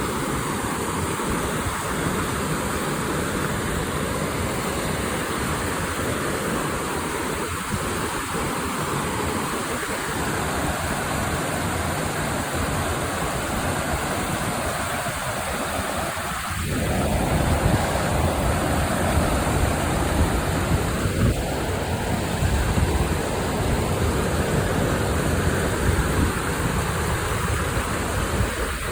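Creek water rushing and splashing in a steady flow, which grows louder and deeper a little past halfway.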